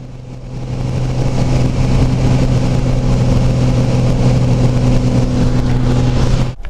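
Light aircraft engine droning steadily, heard from inside the cabin during the approach and landing. It grows louder about half a second in, holds a steady pitch, and cuts off suddenly near the end.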